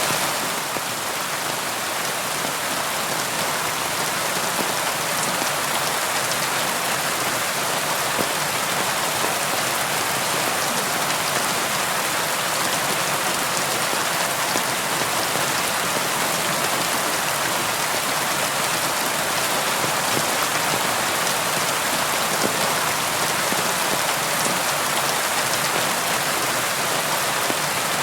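Steady rain falling on a surface: an even, dense hiss of drops with faint scattered patters and no thunder.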